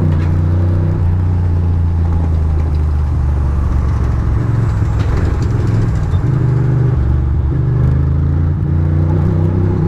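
Ducati Monster's V-twin engine running steadily at low revs, its note shifting a little around the middle. A steady hiss runs under it.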